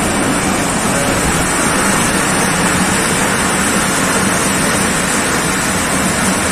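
Passenger train rolling along a station platform, heard from an open coach door: a steady, loud rush of wheel-on-rail running noise and wind on the microphone.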